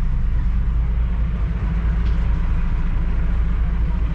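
High-speed passenger boat's engines running with a steady, loud low rumble, heard from on board.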